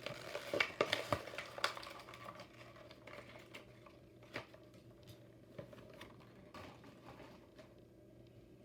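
Plastic blister packaging of a die-cast toy car being handled and opened: quick crinkling and clicking for the first two seconds, then a few scattered clicks.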